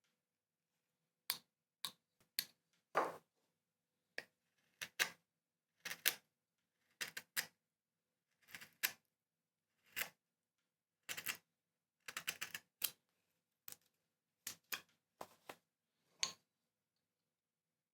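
Hand carving tool cutting into wood: a run of short, sharp cuts at irregular intervals, roughly one a second, some coming in quick clusters of two or three.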